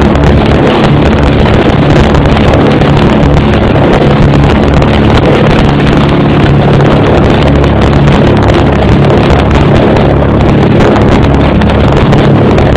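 De Havilland Dragon Rapide's twin inverted six-cylinder piston engines running steadily, heard from inside the cabin, with a loud, even drone and rushing air noise.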